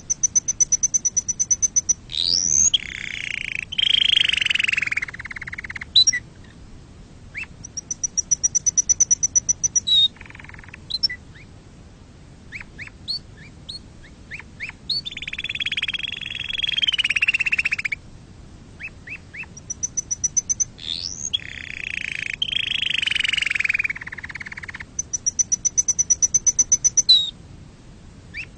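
Domestic canary singing: a fast, high trill of rapid even notes, then quick sweeping whistles and lower rolling, warbled phrases, the whole sequence coming round twice.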